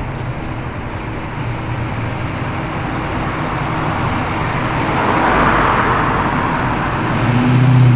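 Classic Ford Falcon muscle car engines rumbling at low revs as the cars roll in slowly. The sound swells as a car passes close about five seconds in, and a deep engine note grows louder near the end.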